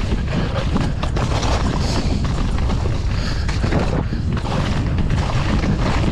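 Wind rumbling on a GoPro's microphone during a fast downhill mountain-bike descent, with constant knocks and rattles as the bike runs over rough, wet ground.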